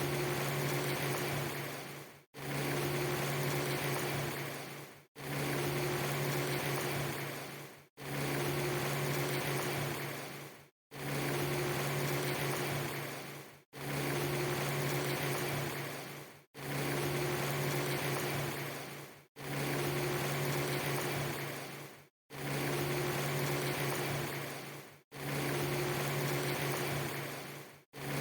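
A steady hiss with a strong low hum, a segment under three seconds long repeated over and over, each repeat ending in a brief cut to silence, about ten times in all. It is a poorly joined ambience loop rather than continuous rain.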